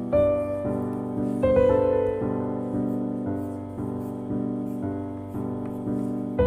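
Background piano music, slow and soft, with notes struck about every half second and left to ring out.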